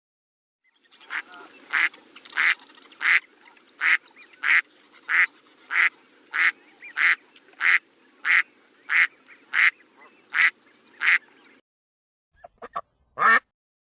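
A duck quacking in a long, steady series of about sixteen quacks, roughly one and a half a second, over a faint background hiss. The quacking stops, and near the end come a few short, different calls, the last one loud.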